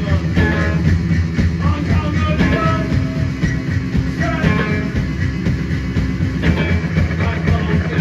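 Live rock band playing loud, with distorted electric guitars, bass and drums, and a dense sound that continues without a break.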